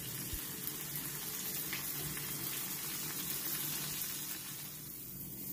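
Two ground-beef burger patties sizzling steadily in hot oil in a frying pan over a low flame.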